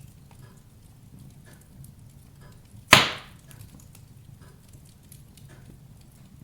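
Wood fire burning in a fireplace, crackling softly, with one loud sharp pop about three seconds in.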